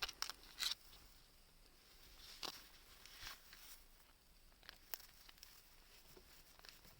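Small wood fire crackling faintly in a homemade can secondary-combustion stove, with scattered sharp pops, the loudest within the first second and about two and a half seconds in.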